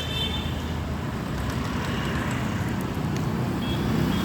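Steady road traffic noise: vehicles running with a continuous low rumble.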